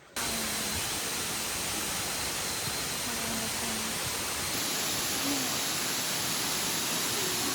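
Waterfall: falling water making a steady, even rushing noise that cuts in abruptly right at the start.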